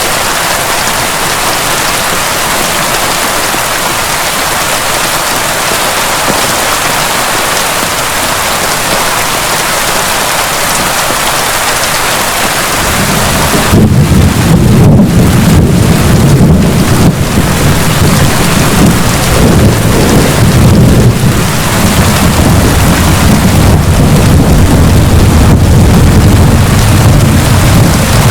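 Steady heavy rain falling, then about halfway through a long low roll of thunder starts and keeps rumbling under the rain.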